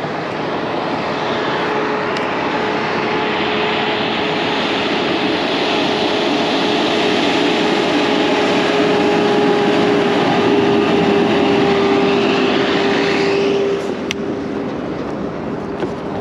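Heavy rock truck's diesel engine labouring up a hill under load: a steady drone with a held tone, growing louder, then falling off sharply near the end.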